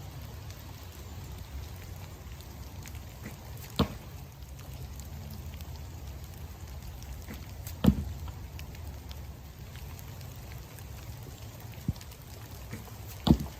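Steady rain falling, broken by three sharp thumps of wooden arrows being shot from a bow, with a fainter click between the last two. The loudest thump is near the middle.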